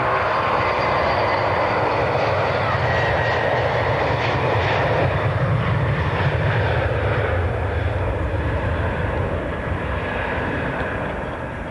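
Jet airliner passing close by: a loud engine rush with a deep rumble that fades away over the last few seconds.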